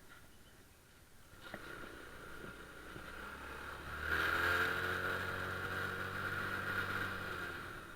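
Small motorcycle or scooter engine running. It comes in about a second and a half in, gets loudest about four seconds in, and eases off near the end.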